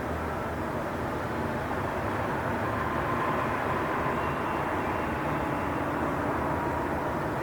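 Train station ambience: a steady rumble, with a faint whine joining about three seconds in.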